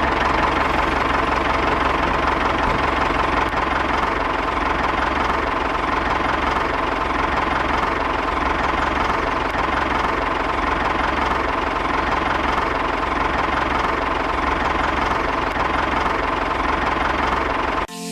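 A small engine on a homemade mini tractor or bulldozer runs steadily, then cuts off suddenly near the end.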